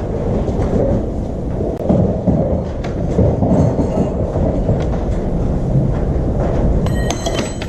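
Steady low rumbling noise with a few faint clicks as a spanner works the chop saw's blade nut loose. About seven seconds in, a steel spanner lands with a short metallic clatter and ring.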